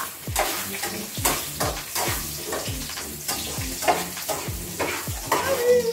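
Marinated chicken sizzling in a pot on a gas stove as it is stirred, with background music keeping a steady thumping beat of about two to three beats a second.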